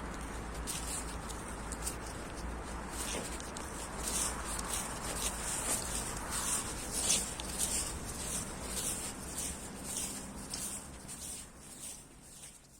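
Footsteps crunching and rustling through dry autumn leaves, a continuous run of crisp crunches over a low steady rumble, fading away near the end.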